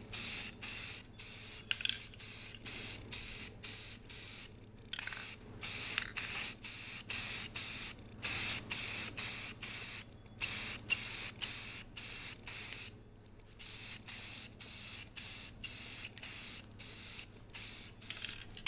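Rust-Oleum aerosol spray paint can spraying in quick short bursts, about two a second, with a few longer passes and brief pauses between them: a coat of paint going onto a fender.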